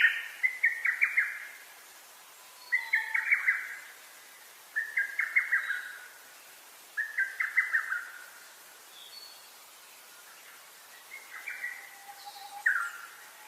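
A songbird singing short phrases of rapid notes, repeated every second or two with a longer pause in the middle, while a thin, low whistle from another bird sounds now and then.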